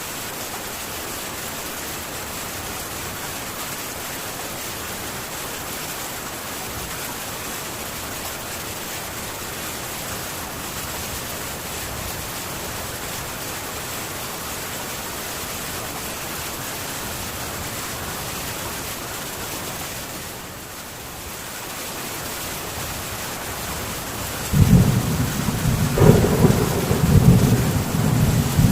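Heavy rain on a metal tin roof as a steady, even hiss, easing briefly shortly before the end. Then a loud, low rumble of thunder breaks in and rolls on.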